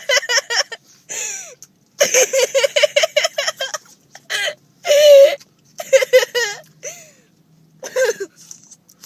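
A child laughing hard in several long bursts of quick, rapid-fire pulses, with short gasping breaths and squeals between the bursts.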